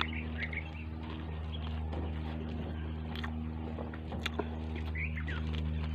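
Chewing and biting food with a few sharp clicks, over a steady low hum like a motor running, with a few short high chirps from an animal or bird.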